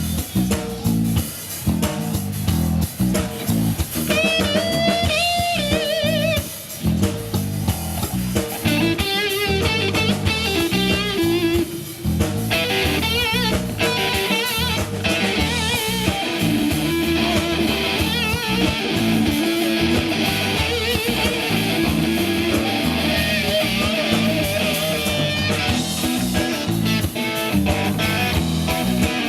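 Rock band playing an instrumental passage: an electric guitar lead with bent, wavering notes over drum kit and bass guitar, the lead starting about four seconds in.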